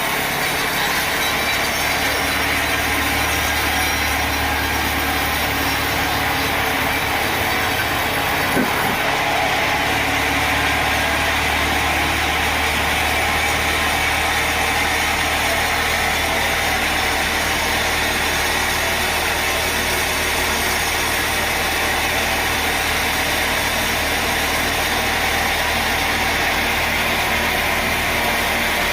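Sawmill machinery running steadily: a constant engine or motor hum under a broad, even noise, with a brief rising sound about eight seconds in.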